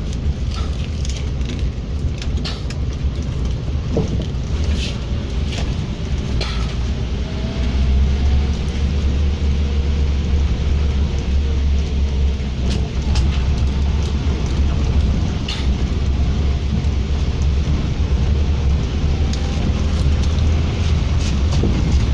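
Ferry's engines running with a steady low rumble that grows louder about eight seconds in, with a few scattered clicks and knocks over it.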